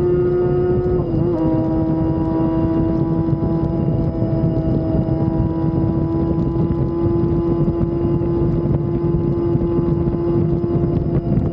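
Motorcycle engine running at high, steady revs while riding, with wind buffeting the microphone. The engine note dips briefly about a second in, then holds steady at a slightly lower pitch.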